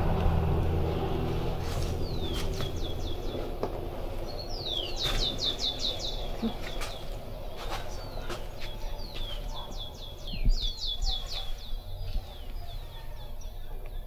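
A songbird singing repeated phrases, each a quick trill of short down-slurred notes, every second or two.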